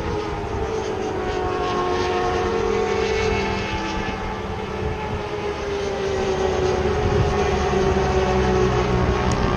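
Aprilia Tuono motorcycle engine running steadily at cruising speed, with rushing wind; its pitch drifts slowly, with little change in throttle.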